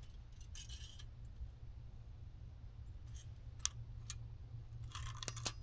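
Faint scattered clicks and light metallic rattles of hand tools and steel parts being handled, with a cluster near the end, over a steady low hum.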